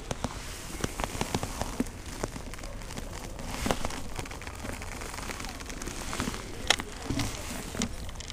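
Light rain pattering on a chest-mounted camera and rain jacket: irregular small ticks over a soft hiss.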